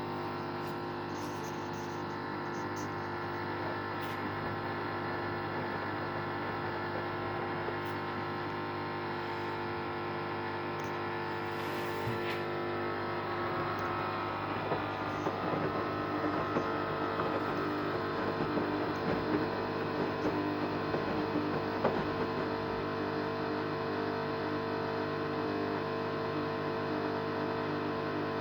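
Samsung WD0804W8E washer-dryer making a strange steady hum of several held tones, turning crackly and uneven for a few seconds in the middle. The owner suspects the noise comes from the heating element and comes on when the heater is on.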